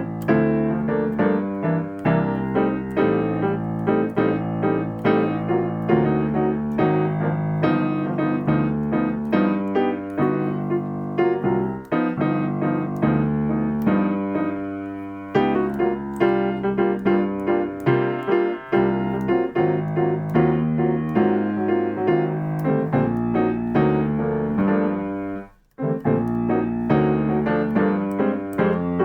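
Solo piano playing jazz comping patterns: chords struck in a repeating syncopated rhythm. About twelve seconds in, one chord is held and dies away for a few seconds before the pattern resumes, and near the end the playing stops for a moment.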